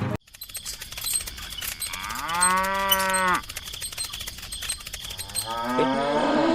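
A cow mooing twice: a long call about two seconds in, then a second call that rises in pitch near the end.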